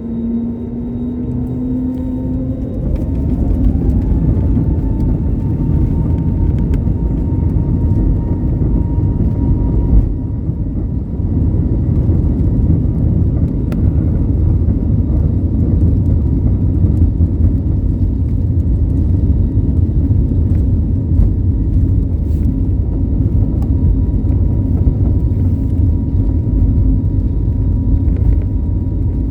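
Airbus A320's jet engines spooling up to takeoff thrust, a whine rising in pitch over the first few seconds, then a steady loud rumble of the takeoff roll heard inside the passenger cabin.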